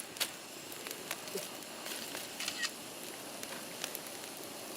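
Wood fire crackling in a split-log fire pit lit over fatwood, with sharp, irregular pops over a steady hiss.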